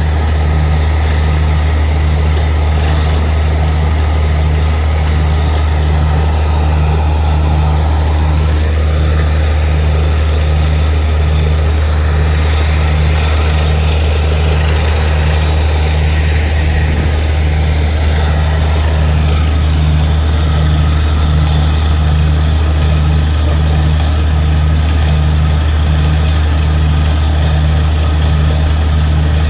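Borewell drilling rig's engine running steadily under load, a loud low hum with a regular throb.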